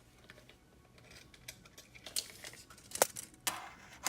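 Handling noises as a diecast starship model is measured: scattered light clicks and rustling, with one sharp click about three seconds in and a short rustle just after it.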